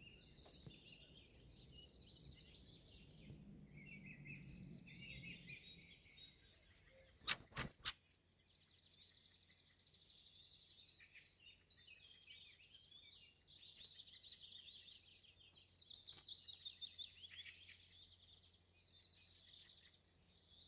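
Small songbirds singing and calling, a faint chorus of twittering phrases and rapid trills. About seven seconds in, three sharp clicks close together, the loudest sounds.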